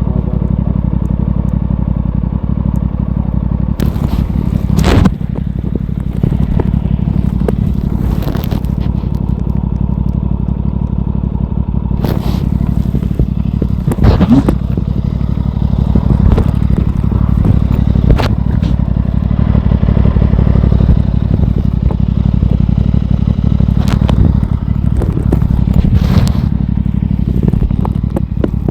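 Aprilia Tuono 660's parallel-twin engine running under way on a ride, over a steady loud low rumble. Several short sharp bursts of noise are scattered through it.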